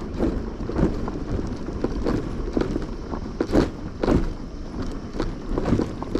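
Irregular knocks and thuds, about two or three a second, over a rough low rumble, with the loudest knocks a little past the middle.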